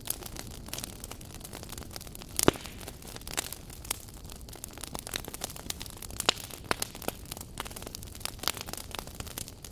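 Wood fire crackling in a fireplace: irregular sharp pops and snaps over a steady soft hiss of flame, with one loud pop about two and a half seconds in.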